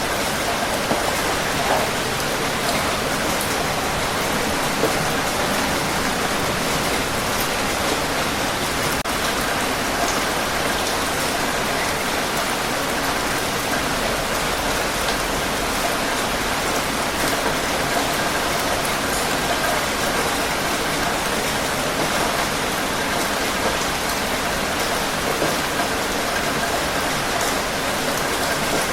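Steady heavy rainfall, a dense even hiss of rain hitting a surface with scattered individual drop ticks.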